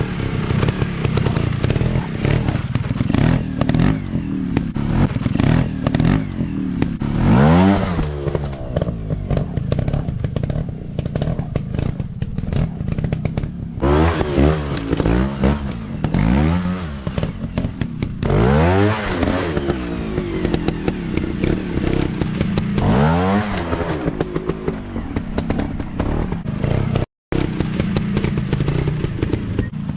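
Dirt bike engine running under load with repeated hard revs, the pitch sweeping up and back down about five times, alongside some clatter.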